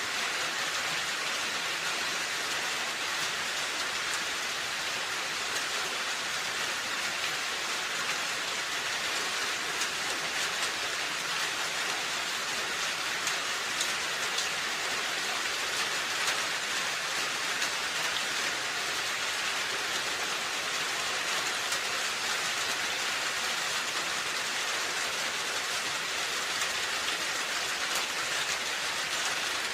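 Steady rain falling on a roof: an even hiss with faint scattered drop ticks.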